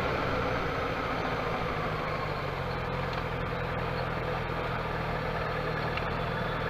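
Motorcycle engine running steadily, an even low hum with no revving.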